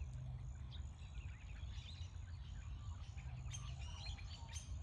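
Small birds chirping in the background: short, high calls scattered throughout, over a low steady rumble.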